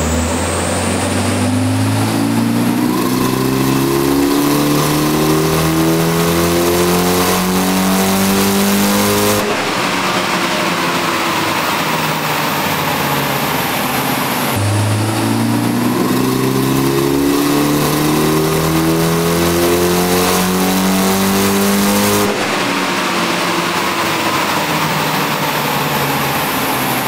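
Mitsubishi Lancer Evolution VI's turbocharged four-cylinder engine doing two wide-open-throttle power runs on a chassis dyno. Each run climbs steadily in pitch for about eight or nine seconds, then the throttle lets off and the revs fall away.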